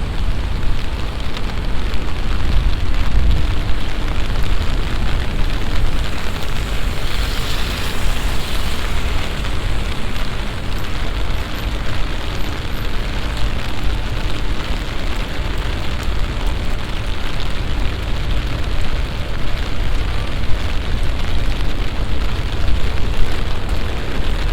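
Heavy summer downpour: a loud, steady roar of rain with a deep rumble underneath, briefly hissing brighter about seven seconds in.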